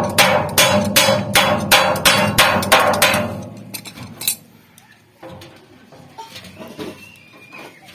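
A hammer beating sheet aluminium, about three even blows a second, each blow ringing. The blows stop a little over three seconds in, and only a few lighter knocks follow.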